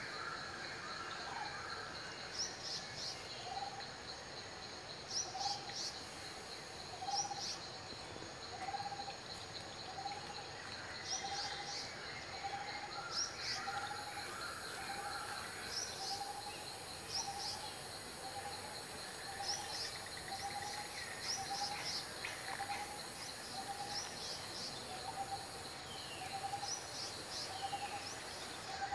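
Background birdsong: one bird repeats a short mid-pitched note steadily, about once a second or a little faster, while other birds give clusters of high chirps. A faint high hiss comes in about halfway through.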